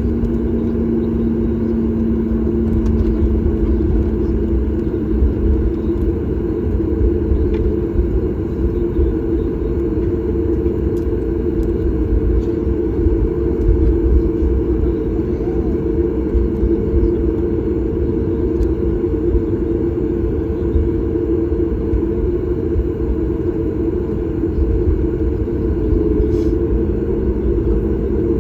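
Cabin noise of a Boeing 737 MAX 8 with its CFM LEAP-1B engines running: a steady, even rumble carrying a steady two-note hum.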